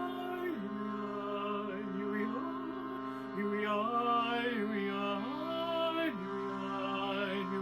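Wordless vocal improvisation in long, sliding held tones over a steady drone, in the style of a chant or mantra.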